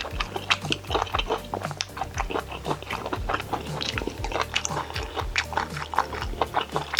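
A person chewing and biting food close to the microphone, with quick wet clicks and crunches several times a second.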